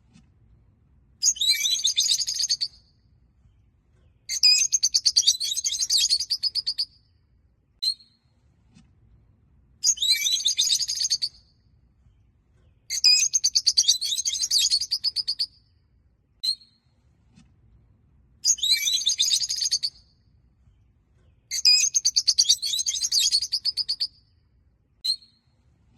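Peach-faced lovebirds chattering in bursts of rapid, high chirps, each lasting a second and a half to three seconds. Single short chirps come in the gaps between them.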